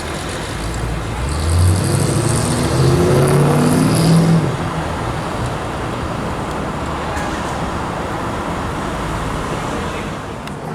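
A car accelerating past, its engine note rising for about three seconds and peaking about four seconds in, then steady road traffic noise.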